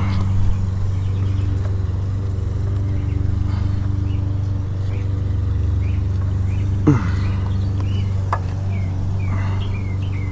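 A steady low mechanical hum, like a motor running, with a short falling squeak about seven seconds in and small bird chirps near the end.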